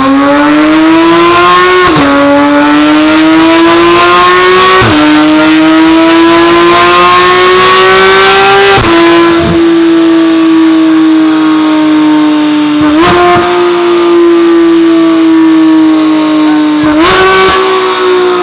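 Porsche 991.1 GT3's naturally aspirated flat-six at full throttle on a chassis dyno, breathing through a new aftermarket exhaust. The engine note climbs in each gear and drops at each of five quick upshifts, each shift marked by a sharp crack.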